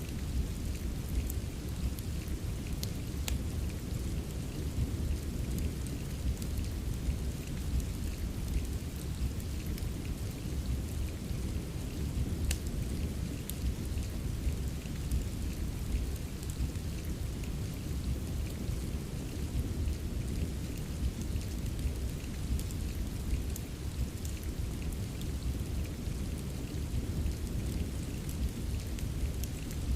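Steady rain mixed with a fireplace, with a deep, continuous low rumble and scattered sharp crackles.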